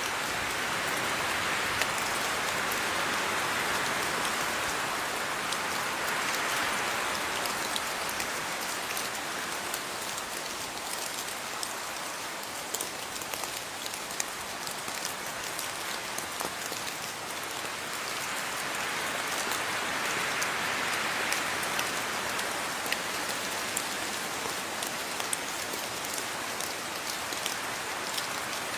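Steady rain falling, a dense hiss of drops on a surface with fine individual drip ticks, swelling and easing gently a couple of times.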